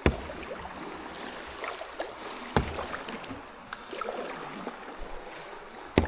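Kayak being paddled through water, with splashing and dripping from the paddle and three sharp knocks: one at the start, one about two and a half seconds in, and one near the end.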